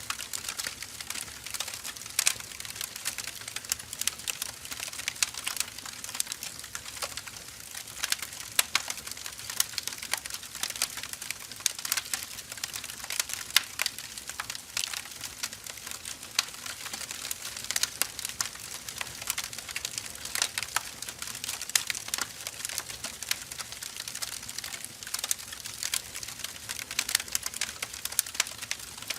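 Firewood burning: a dense, irregular crackle of small snaps and sharp pops from the logs.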